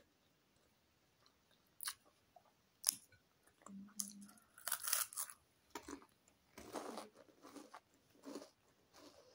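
Close-up crunching and chewing of a crisp cheese twist stick. A couple of sharp single crunches come about two and three seconds in, then a burst of bites and steady crunchy chewing fills the rest.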